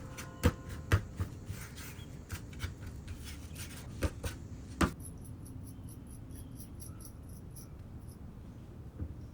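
Clay and sculpting tools handled on a work surface: a run of sharp taps and knocks, the loudest near the start and just before halfway, followed by a few seconds of faint, quick light ticking.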